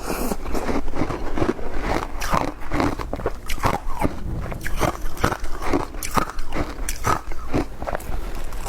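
Ice being bitten and chewed: a rapid, irregular run of crisp crunches.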